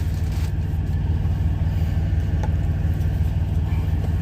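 Semi truck's diesel engine idling: a steady low rumble with an even pulse, heard from inside the cab.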